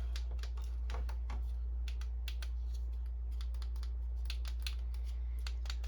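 Irregular light clicks and taps of hands handling the opened printer's plastic parts and cable connectors, over a steady low hum.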